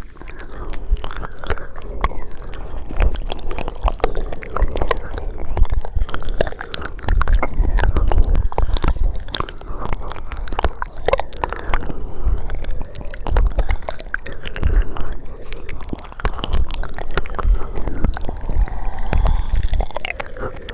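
ASMR mouth sounds close to the microphone: a steady run of wet clicks, smacks and tongue sounds.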